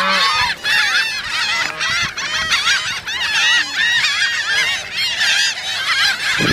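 A large flock of birds calling loudly over one another, many short arched calls overlapping in a continuous din as they crowd in to grab thrown bread.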